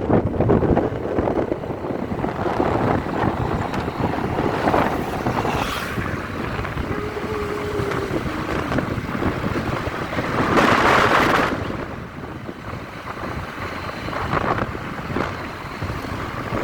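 Wind buffeting the microphone over the steady rumble of a moving vehicle, with a louder rush lasting about a second a little past the middle.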